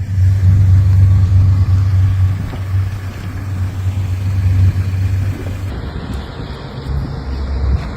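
Steady, loud low rumble with noise above it, the sound changing about six seconds in.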